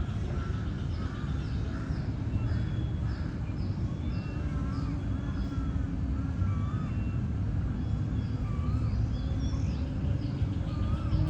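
Outdoor ambience of several birds calling: short, high, falling chirps repeating about twice a second, and wavering whistled notes, over a steady low rumble.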